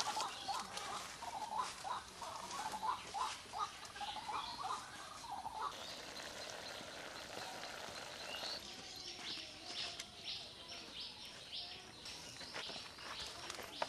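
Birds calling: a run of short repeated calls for the first half, then quicker, higher chirps in the second half, with a few faint clicks.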